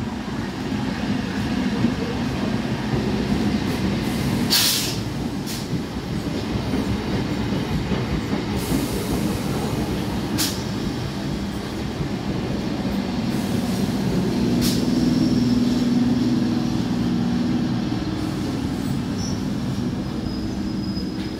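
Indian Railways electric multiple-unit local train running into a platform: a steady rumble of wheels on the rails with a few sharp clicks from the wheels. A low hum swells about two-thirds of the way in.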